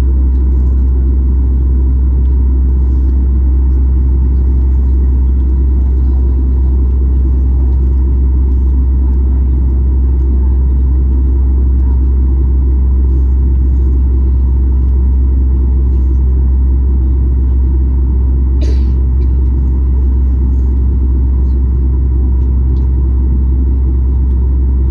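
Steady low rumble of cabin noise inside a Boeing 737 MAX 8 with its engines running, with one short click about three-quarters of the way through.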